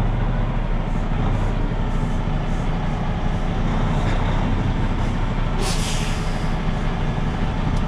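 Semi truck's diesel engine running steadily with a low rumble, with a short hiss of released air about two-thirds of the way through.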